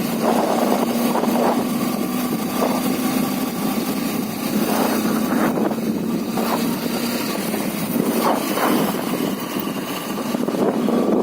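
Motorcycle engine running at a steady cruising speed, with wind rushing and buffeting over the microphone.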